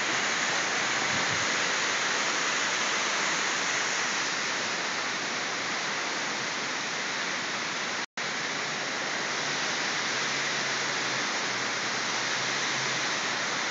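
Steady rushing of water from a tall waterfall and the river below it. The sound cuts out completely for a split second about eight seconds in.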